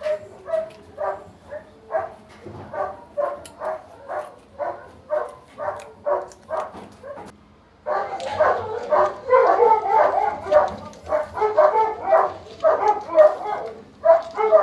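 A dog barking over and over, about two barks a second, growing louder and more continuous from about eight seconds in.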